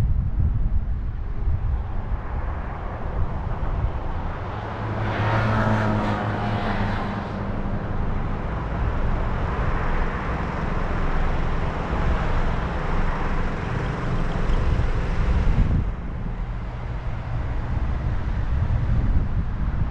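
Road noise and wind buffeting on a roof-mounted camera's microphone as a car drives through city traffic. About five seconds in, a louder vehicle with a low engine hum passes and fades. The hiss drops back near the end.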